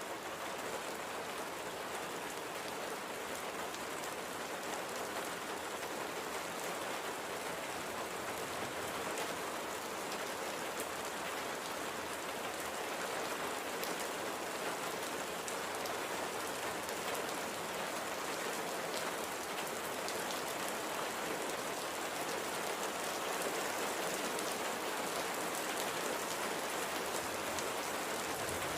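Steady light rain falling, an even patter of drops on a surface with faint scattered individual drop ticks.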